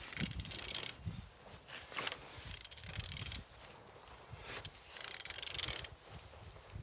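Ratchet wrench clicking as a used 27V6 engine is turned over by hand at the crankshaft, in about three long strokes with short pauses between. The engine turns freely.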